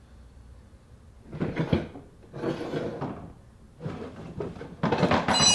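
Hands working the plastic motor and gearbox assembly of a Peg Perego ride-on toy free: four rough scraping and rattling bursts. The last and loudest ends in a short ringing clink.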